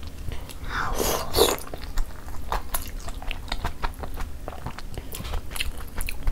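Close-miked eating of a gravy-soaked chicken momo: a loud wet bite about a second in, then chewing with many small wet mouth clicks.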